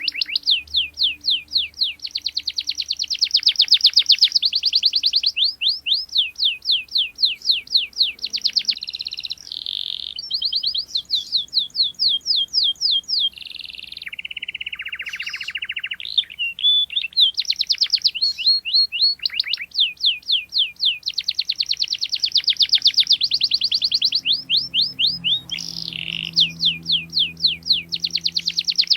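Domestic canary singing: long runs of rapid repeated chirps and rolling trills, with a lower, buzzy passage about halfway through.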